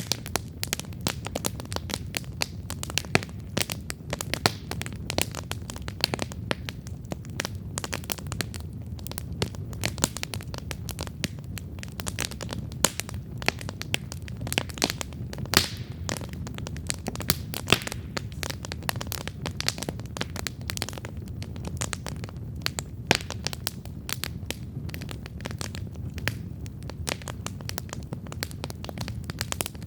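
Wood campfire burning, with dense, irregular crackles and pops over a low, steady rumble of the flames.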